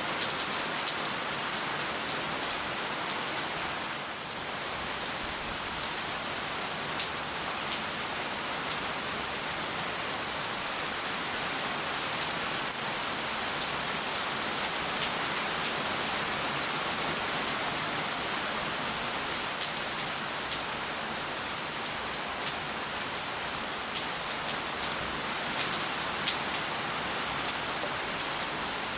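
Steady rain falling, a constant hiss with many separate drops ticking on surfaces.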